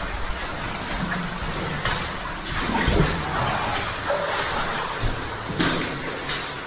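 Underground cave stream running after several days of rain: a steady rush of water, with a few short sharp splashes or knocks.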